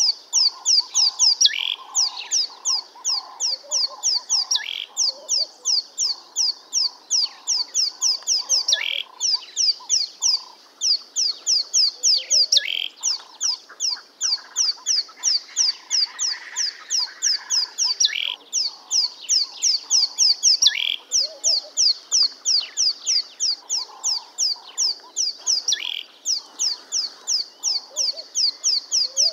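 Small songbirds chirping: fast runs of high, quick chirps, each run two to three seconds long and repeating after short breaks, with softer, lower pulsing calls underneath.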